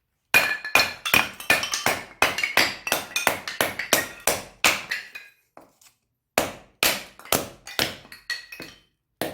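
Quick repeated strikes of an axe blade on wood, about three a second with a short pause past the middle: splitting and shaving kindling.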